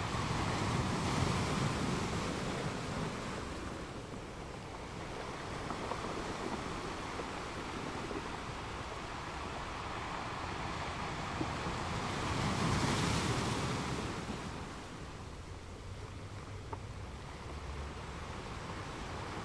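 Waves washing and wind on the microphone, an even rush of water noise that swells louder twice, about a second in and again about two-thirds of the way through.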